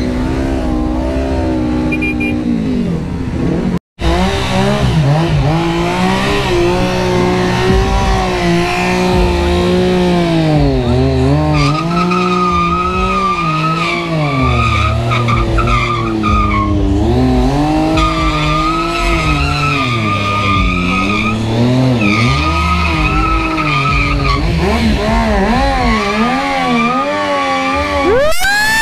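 Motorcycle engines revving hard, the pitch swinging up and down over and over, under a steady high whine. The sound drops out for an instant about four seconds in.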